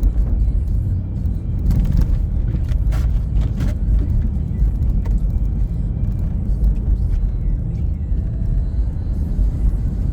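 Car driving: a steady low road and engine rumble, with a few short clicks about two to four seconds in.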